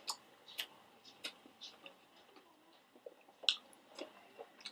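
Close-up chewing of pizza: soft, wet mouth clicks at irregular moments, the loudest about three and a half seconds in.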